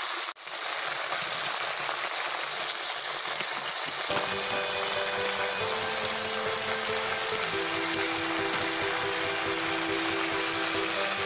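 Onion, capsicum and tomato sizzling as they fry in oil in a pan, a steady hiss that drops out for an instant just after the start. About four seconds in, soft background music with long held notes comes in under the sizzle.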